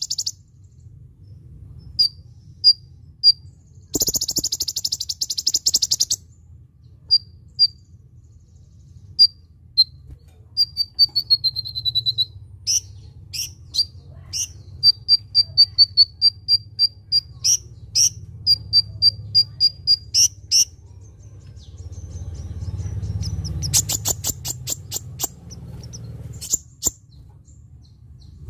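Kolibri ninja sunbird singing: high, sharp chirps, some single and some in quick runs, with a rapid buzzy trill a few seconds in and another near the end. A low steady hum lies underneath.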